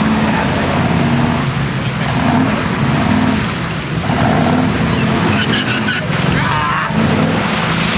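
Lifted 4x4 truck engine revving hard as the truck churns through mud, with mud and water splashing.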